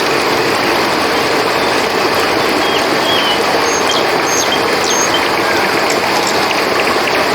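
River water flowing in a steady, even rush, with a few short high chirps about halfway through.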